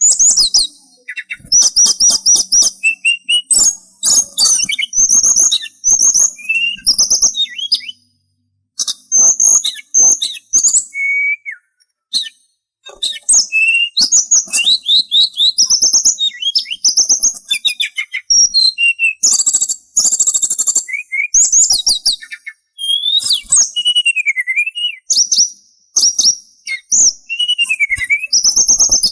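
Sulingan songbird singing a fast, varied song of chirps, trills and whistled notes that slide up and down, broken by two short pauses.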